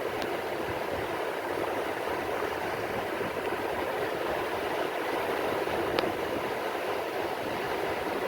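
Steady rain falling on the sea: an even, dense hiss with no rise and fall, broken twice by a faint sharp tick.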